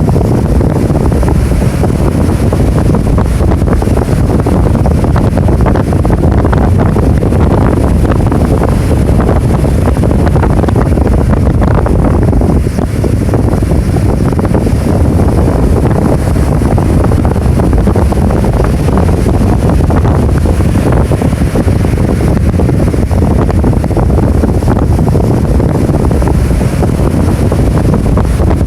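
Rough typhoon surf breaking in white waves, mixed with strong wind buffeting the microphone into a loud, steady low rumble.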